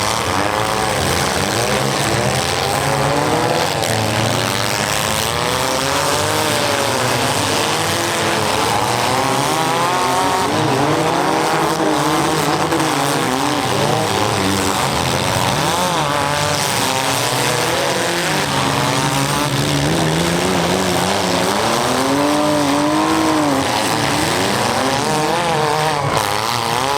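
Several compact demolition-derby cars' engines revving up and down at once, loud and overlapping, over a constant wash of noise.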